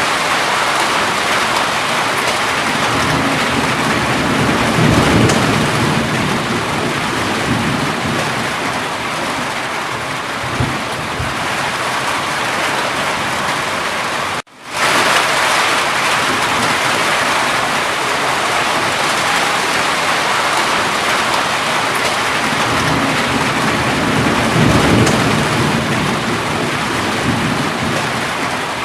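Steady heavy rain, with a low rumble of thunder a few seconds in and again near the end. The sound cuts out for a split second about halfway.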